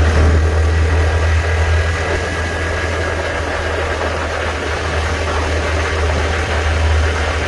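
Honda Trail 125's single-cylinder four-stroke engine running steadily under way, a low drone, with wind and road noise on the onboard microphone.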